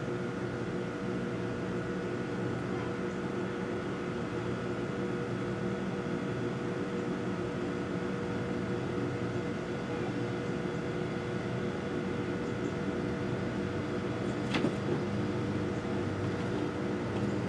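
Steady mechanical hum holding several fixed tones, with a single sharp click near the end.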